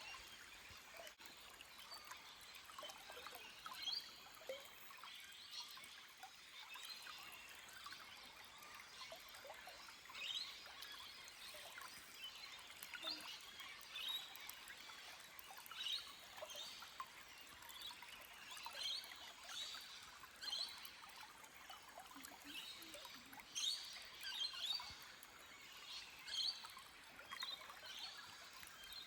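Small forest stream trickling and gurgling over rocks, with scattered short bird chirps.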